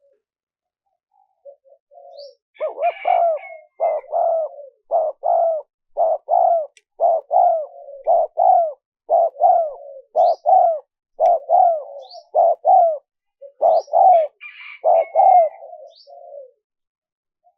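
A spotted dove cooing: a quick series of short, paired coos at about one a second, starting a couple of seconds in and stopping shortly before the end. Faint high chirps and squeaks sound at times above the coos.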